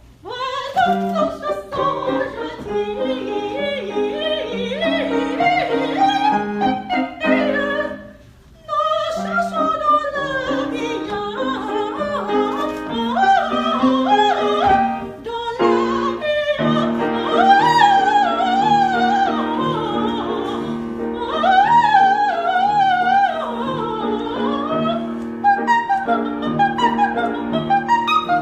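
A high voice singing in a classical, operatic style with wide vibrato over piano accompaniment, with a brief pause about eight seconds in before the singing resumes.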